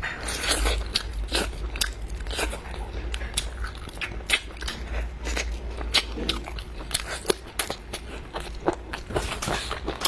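Close-miked chewing and biting, with irregular moist crunchy clicks of food being eaten.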